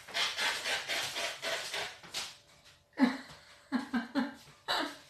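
A person laughing: breathy, wheezing gasps for the first two seconds, then a few short voiced laughs.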